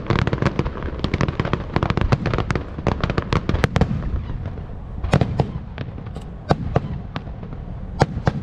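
Aerial fireworks going off: a dense rapid crackle of bursts, thinning after about four seconds to separate loud bangs, the loudest near the end.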